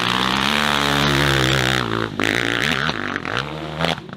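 Dirt bike engine running at high revs, then revved in several short rising blips in the second half.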